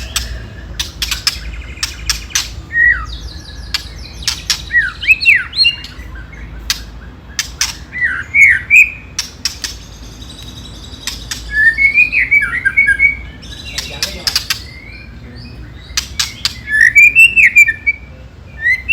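White-rumped shama (murai batu) calling: sharp clicks in quick series, the 'ketrekan' rattle, mixed with several bursts of short whistled notes that rise and fall. This is the aggressive call used as a lure to provoke other shamas.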